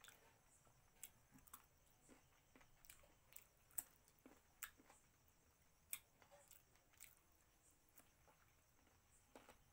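Faint chewing and mouth sounds of a person eating a piece of mutton curry by hand, with irregular sharp clicks, the loudest about four and six seconds in.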